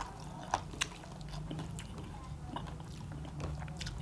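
A person chewing and biting into roast quail meat, with wet mouth clicks, two of them sharp, about half a second and nearly a second in.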